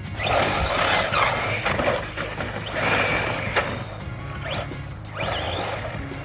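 Background music over ARRMA Senton RC short-course trucks: their brushless motors whine up and down in pitch as they are throttled, with loud bursts of tyre and dirt noise, three times.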